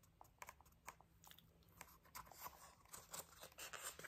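Near silence: room tone with faint, scattered small clicks and rustles, a little busier in the second half.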